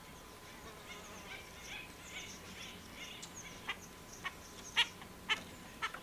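Birds chirping softly, then a series of five short, harsh calls about half a second apart, from a California scrub jay at the birdbath.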